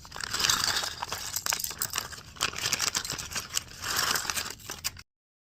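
Plastic Lego parts bag being opened and handled, crinkling and rustling with short clicks, until it cuts off suddenly near the end.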